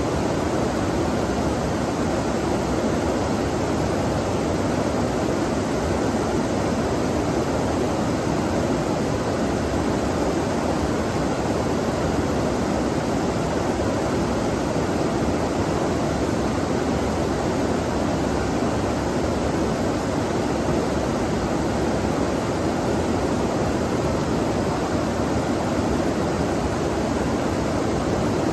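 Steady rushing of a stream's flowing water, an unbroken noise with no pauses or separate events.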